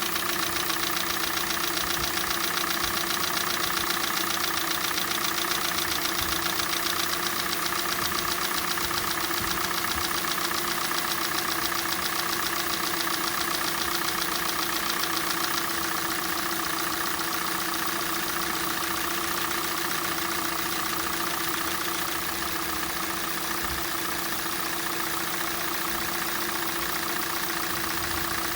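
Hyundai/Kia G4NA 2.0-litre four-cylinder petrol engine idling with a fast, steady knock. This is the cold-engine knock that fades as the engine warms up.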